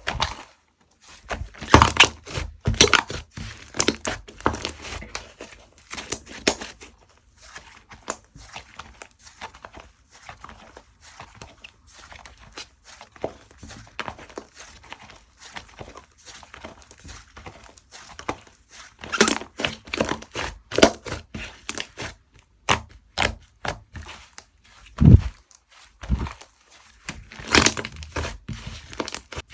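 Slime being squished, stretched and pressed by hand, giving rapid sticky clicks and small air-bubble pops that come in busy stretches with quieter handling between. One deeper thud a little before the end.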